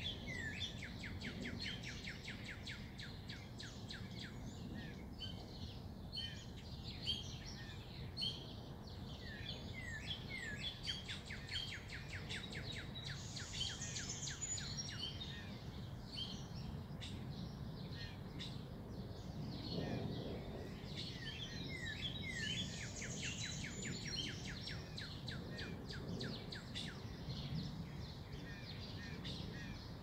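Songbirds singing, a steady stream of quick, high chirps and short notes with a couple of higher buzzy trills, over a low, steady background rumble.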